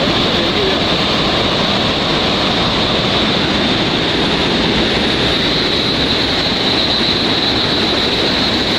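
A steady, loud rushing noise with a constant high-pitched whine above it, unbroken throughout.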